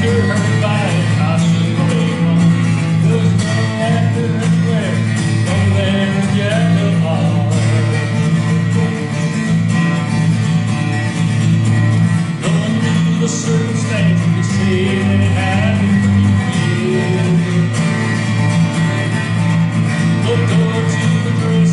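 Martin dreadnought acoustic guitar strummed steadily while a man sings a folk ballad over it.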